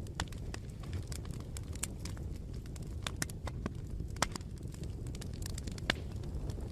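Bonfire burning with a steady low rumble and irregular crackles and pops, a couple of sharper pops standing out.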